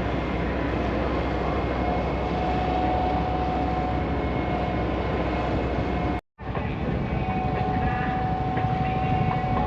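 Steady engine drone with a constant high whine. It cuts out for a moment about six seconds in, then resumes.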